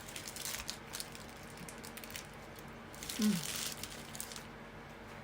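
Crinkling of a burger's paper wrapper during eating, in two spells: light crackles in the first second and a longer rustle about three to four seconds in. A short falling vocal sound comes near the start of the second spell.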